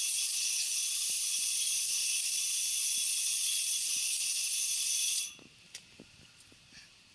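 Steady high hiss of a spray nozzle, shut off suddenly about five seconds in, followed by a few faint clicks.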